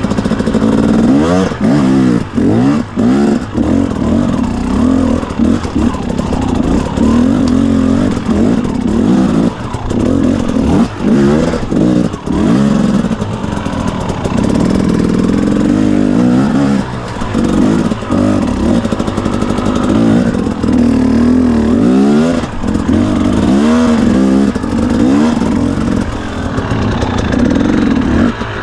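Carburetted two-stroke engine of a 2017 KTM 250 EXC dirt bike revving hard under load, the pitch swinging up and down over and over with quick throttle openings and brief chops.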